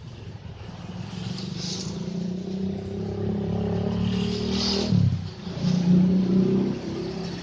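CC206 diesel-electric locomotive engine running hard, growing louder, with a brief dip and drop in pitch about five seconds in before it comes back strongly.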